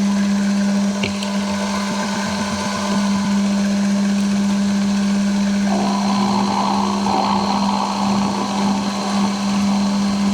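Machine tool running with a steady motor hum, set going for drilling and milling a small steel part. About six seconds in, a higher, rougher noise joins the hum.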